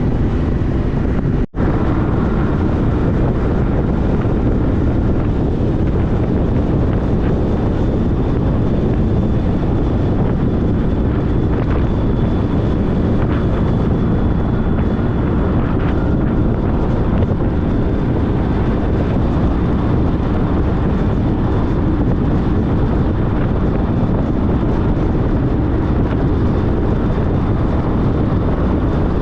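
Steady wind rush and road noise from riding a 2014 Honda CTX1300 motorcycle at speed, with wind buffeting the microphone. The sound drops out for a split second about a second and a half in.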